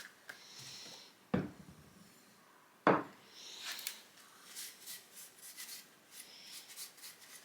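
Two sharp wooden knocks about a second and a half apart, then light rubbing and scraping, as the ash hammer handle is worked while the ball-peen head is fitted onto it.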